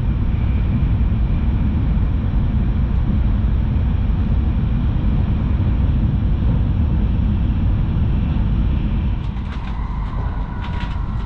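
Steady low rumble of a Shinkansen bullet train running at speed, heard from inside the carriage. Near the end it settles to a quieter cabin hum.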